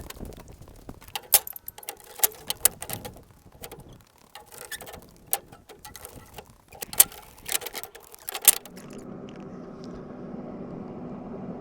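Wooden 2x8 boards knocking and clacking in sharp, irregular hits as they are handled and set down. About eight and a half seconds in, this gives way to a steady low hum.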